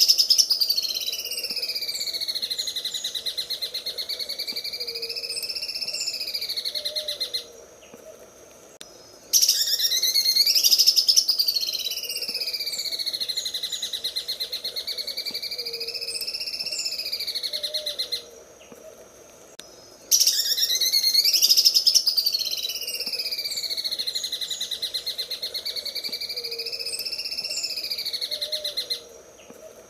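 Cucak ijo (green leafbird) singing its 'sewing machine' song: a fast, machine-like rattling trill that dips and then rises in pitch. It comes in three long phrases of about nine seconds each, with short pauses between.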